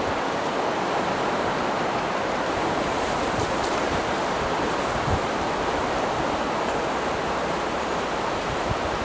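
Steady, unbroken rush of heavy surf and strong wind, with a few faint ticks.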